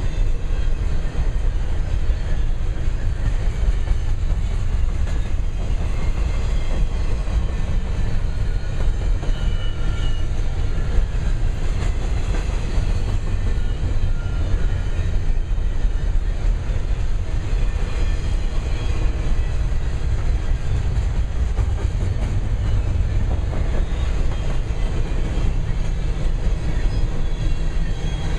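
Double-stack intermodal freight train rolling past: a steady, loud rumble of cars and wheels on the rails, with faint, brief high squeals now and then.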